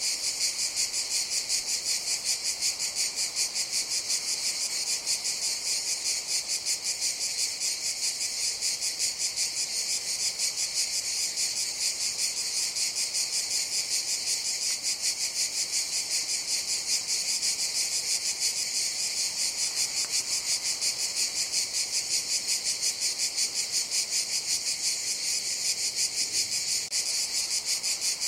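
Chorus of cicadas calling: a steady, high-pitched buzzing with a rapid, even pulse.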